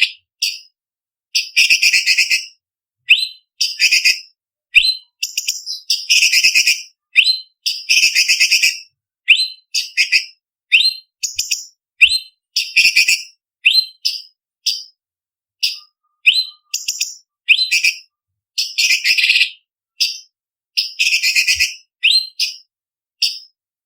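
Orange-bellied leafbird (cucak cungkok) singing: rapid, high-pitched phrases of whistles and sharp chips in repeated short bursts, each up to about two seconds long, with brief silent gaps between them.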